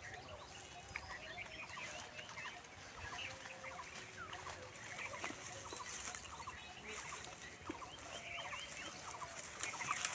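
Birds calling all around, many short quick chirps and clucks overlapping one another.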